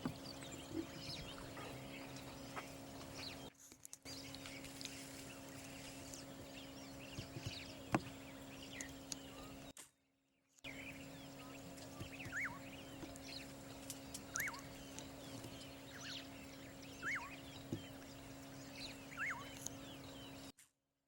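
Birds calling in short, scattered chirps over a steady low hum. The sound drops out briefly three times.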